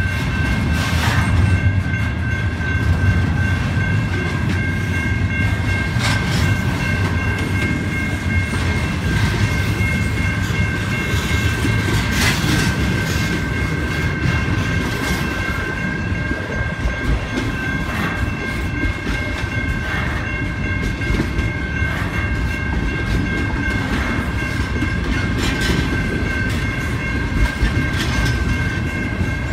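Double-stack intermodal container cars rolling past on steel wheels: a steady rumble with sharp clacks every couple of seconds as the wheels cross rail joints. A steady high-pitched ringing tone sits above the rumble.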